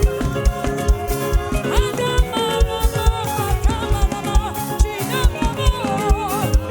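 Live band playing upbeat African gospel praise music with a steady drum beat and a melodic line that slides up and down in pitch.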